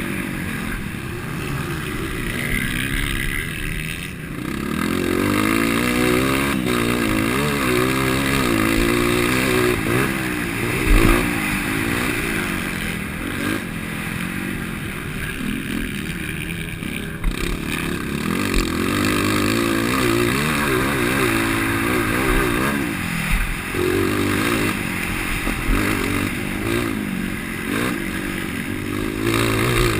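230 cc dirt bike engine running a DORE exhaust header and tip, revving hard through a race lap, its pitch climbing and dropping again every second or so as the throttle opens and closes. Occasional dull knocks sound over the engine.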